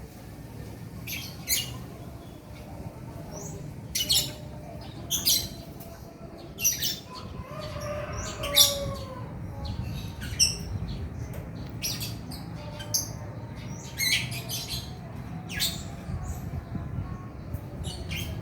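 Male lovebird calling in sharp, high-pitched chirps and squawks at irregular intervals, roughly one a second, with a softer warbling phrase about halfway through. A steady low hum runs underneath.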